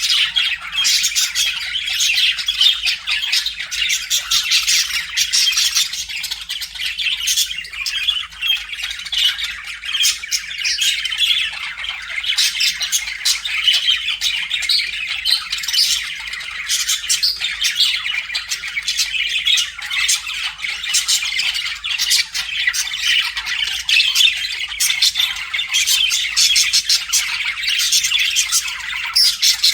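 Budgerigars chattering continuously, a dense overlapping stream of quick chirps, warbles and squawks with no pauses.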